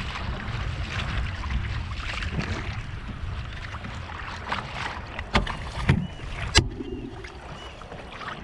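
Wind rumbling on the microphone over water noise on a kayak, then a few sharp knocks and clicks as the camera mount is handled and repositioned, after which the wind noise drops.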